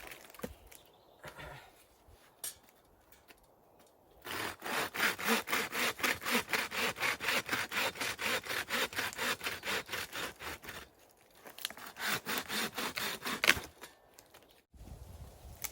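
Hand saw cutting through wood in quick, even back-and-forth strokes, about three a second. The sawing starts about four seconds in, pauses briefly, then resumes for a couple of seconds, and ends with a single sharp knock.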